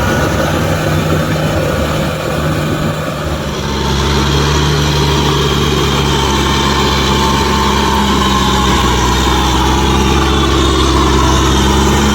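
Kubota M6040SU tractor's diesel engine running steadily, with a faint whine above it. About four seconds in, the engine note grows deeper and louder and holds there.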